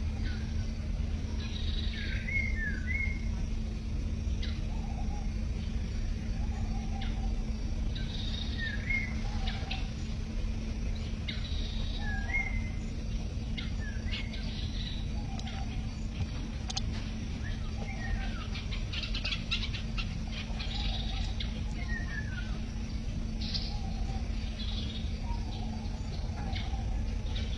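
Birds giving short chirps every few seconds, several falling in pitch, over a steady low rumble and hum.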